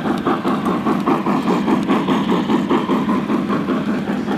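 Model train running on a layout track, an even rhythmic pulse of about four to five beats a second.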